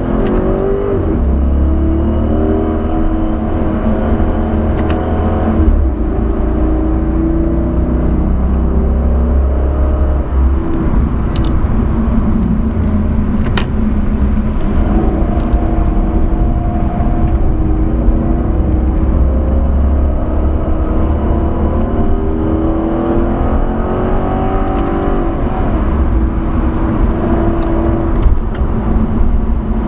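Dodge Charger SRT's V8 engine heard from inside the cabin, accelerating hard. Its pitch climbs and drops back in repeated runs through gear changes and lifts, over steady road and tyre noise.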